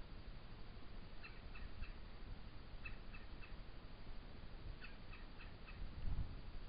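A bird calling in short runs of about four quick chirps, repeated every couple of seconds. Steady low background noise runs under it, with a brief low rumble about six seconds in.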